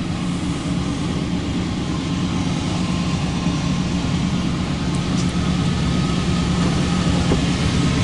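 Diesel freight locomotives working hard as they haul a loaded autorack train up a grade: a steady low engine drone that slowly grows louder.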